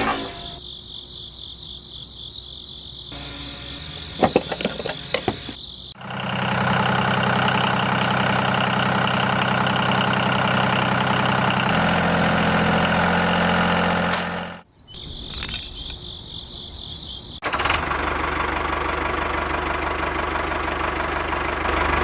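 Small motor of a miniature model engine running in several short takes: first a faint high whine with a few clicks, then a louder steady hum whose note shifts about twelve seconds in, and after a brief break a steady running noise.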